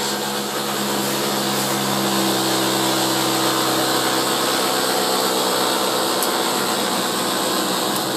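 Loud, steady machine noise: a continuous motor hum with a dense hiss over it, running without a break.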